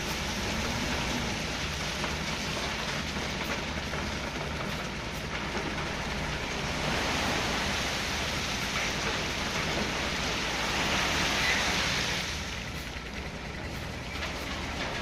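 Dump truck's diesel engine running low beneath a steady rushing hiss that holds for the whole stretch and eases off slightly near the end.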